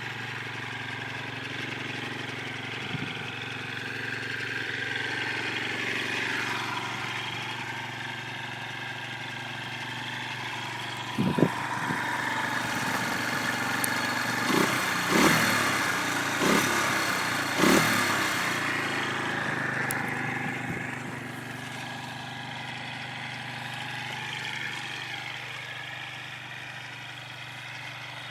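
Derbi Senda SM 125 motorcycle engine idling steadily, with a short throttle blip about eleven seconds in and a quick run of three or four revs soon after, then settling back to idle.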